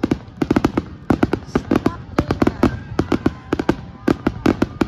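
Aerial fireworks going off in a rapid barrage: many sharp bangs and crackles a second, overlapping in tight clusters as shells burst overhead.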